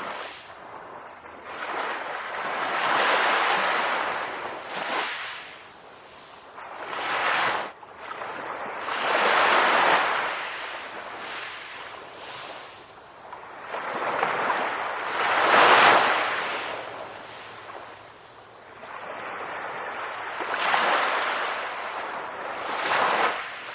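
Ocean waves breaking and washing onto the shore, swelling and falling away in surges every few seconds, the loudest crest about two-thirds of the way through.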